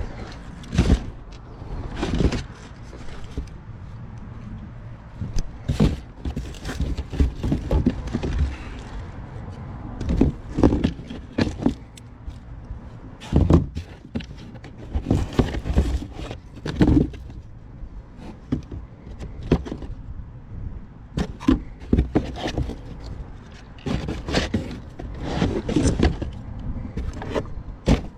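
Irregular knocks, clunks and scrapes of items being moved and dropped while digging through a dumpster, over a steady low rumble.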